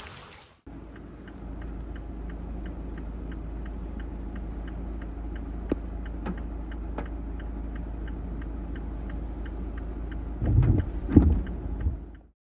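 A steady low vehicle rumble with a regular light ticking about three times a second, and a few loud thumps near the end.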